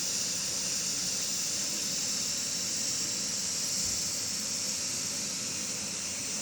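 Steady high-pitched hiss of escaping steam, typical of a garden railway steam locomotive standing in steam.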